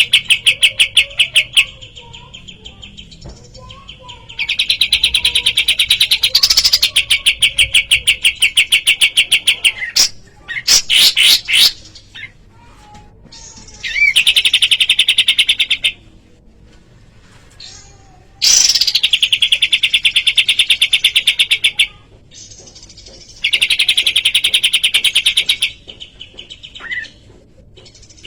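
Kapas tembak songbird singing in loud bursts of very fast, rapidly repeated high notes, each burst lasting a few seconds, with quieter pauses between them, about six bursts in all.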